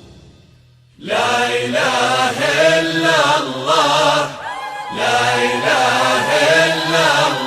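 Devotional Arabic chanting of a salawat nasheed in praise of the Prophet Muhammad, sung in drawn-out melodic phrases over a steady low held tone. It starts about a second in, after the previous sound fades out, with a short break in the middle.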